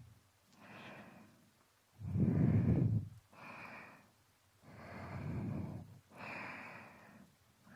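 Slow, close breaths into a binaural microphone: five breaths with short pauses between them, the loudest about two seconds in.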